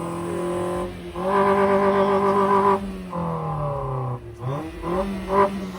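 Car engine being revved hard and held at high revs, with the revs dropping away about three seconds in and snapping back up near the end.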